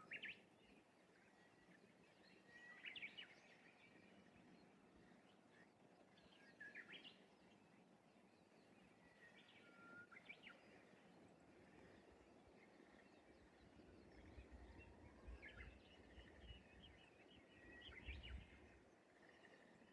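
Faint, distant Japanese bush warbler song: a held whistle running into a quick rising flourish, repeated every few seconds over a quiet outdoor background. A low rumble swells near the end.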